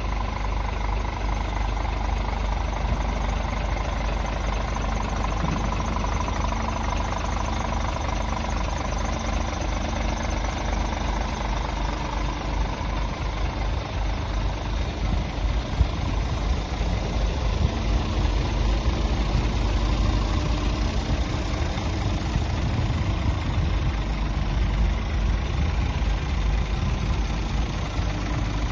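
Scania R 450 truck's 13-litre straight-six diesel idling steadily, with one brief knock about halfway through.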